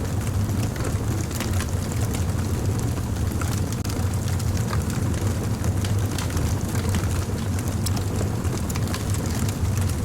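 Fire crackling: frequent small, sharp pops and snaps over a steady low rumble.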